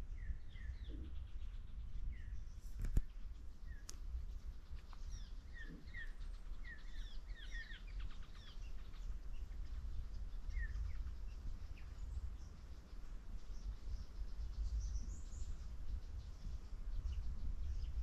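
Bush birds chirping, many short notes that drop quickly in pitch, with a steady low rumble underneath and a couple of sharp clicks about three and four seconds in.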